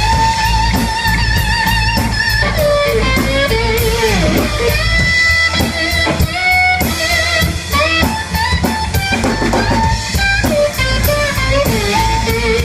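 Live band playing: an electric guitar lead with bent notes and vibrato over a drum kit with steady cymbal strokes.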